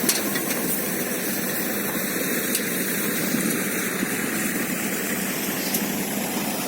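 Sonalika tractor's diesel engine running steadily at a constant speed.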